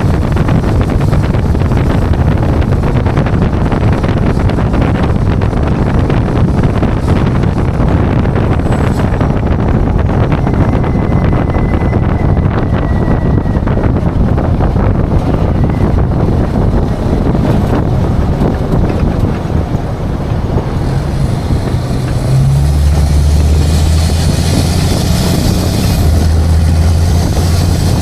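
Tow truck driving: steady engine and road noise with wind buffeting the microphone. About three-quarters of the way in, a deep engine drone comes up strongly and holds.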